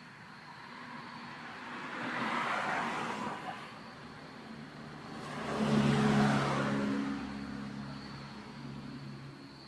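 Two road vehicles passing by one after the other, each rising and fading. The second, about halfway through, is louder, with a low engine hum that fades slowly.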